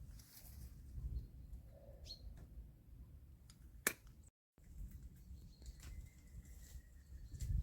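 Quiet outdoor ambience: a low rumble of wind on the microphone with a few faint bird chirps, and one sharp click a little before the middle.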